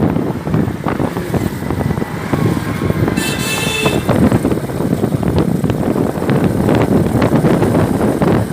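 Loud engine rumble of a moving vehicle with wind buffeting the microphone, and a brief high-pitched horn toot about three seconds in.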